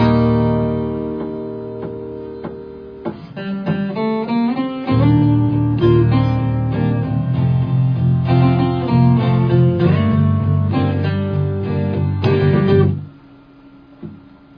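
Acoustic guitars playing an instrumental break: a chord rings out and fades, then picked and strummed notes with low notes under them come in, stopping sharply about a second and a half before the end.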